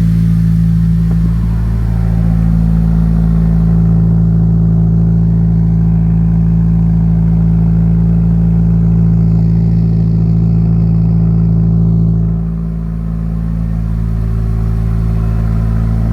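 Subaru WRX turbocharged flat-four engine idling steadily, with a brief dip in its note about twelve seconds in. The engine is being watched for a misfire, with white smoke from the exhaust; the owner suspects a blown head gasket.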